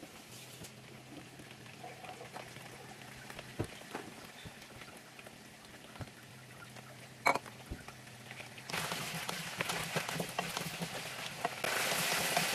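Carrot and potato chunks frying in oil in a wok: a soft sizzle with a few sharp knocks, one louder one a little past halfway. The sizzle grows much louder about two-thirds in and again near the end as the vegetables are stirred with a wooden spatula.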